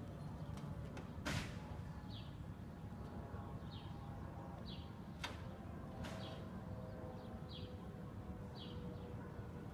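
A small bird chirping about once a second over a low outdoor rumble, with two sharp knocks, the louder about a second in and another about five seconds in, from roofers tearing off old roofing.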